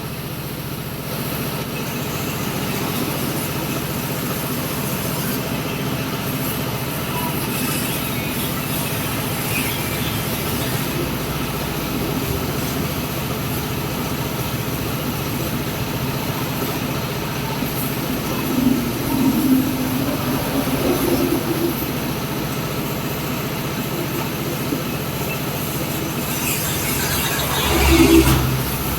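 A motor running steadily with a low drone, swelling briefly louder near the end.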